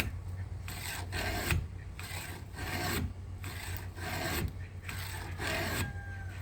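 Steel guided chainsaw sharpener's round and flat files rasping across a chainsaw chain's cutter tooth and depth-gauge raker in a series of back-and-forth strokes. A steady low hum runs underneath.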